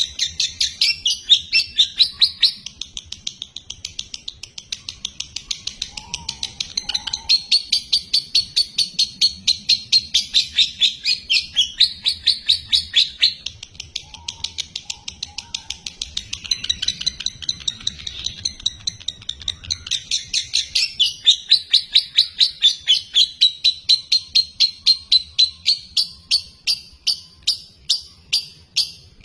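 Lovebird singing a slow-tempo song: long runs of sharp, high repeated chirps that break off briefly between phrases. Near the end the chirps slow to about two a second.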